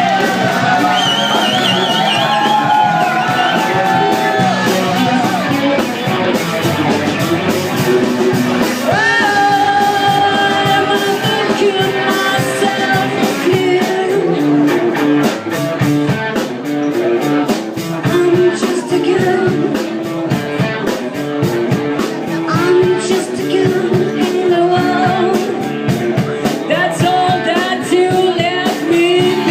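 Live rock band playing, with a singer holding and bending sung notes over electric guitar and drums.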